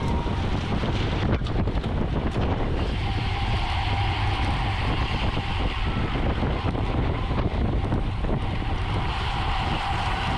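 Wind rushing over the microphone of a road bicycle moving at racing speed, with tyre and road noise underneath and a thin steady whine from about three seconds in.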